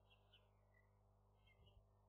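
Near silence with faint, high bird chirps: short paired notes twice early on and another pair about one and a half seconds in, over a steady low hum. A soft low bump comes near the end.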